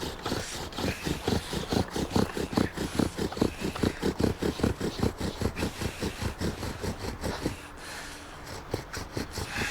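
Bow drill worked hard and fast: the wooden spindle rasps in the hearth board with each pull of the hide-strung bow, about four strokes a second, and the strokes die down about seven and a half seconds in. The wood is not dry enough to give an ember easily.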